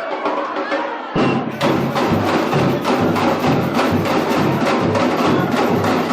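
Brazilian university bateria, a samba percussion band, playing. After about a second of voices, the full band comes in suddenly with a fast, dense drum beat, sharp wood-block-like strokes and regular deep bass-drum thumps.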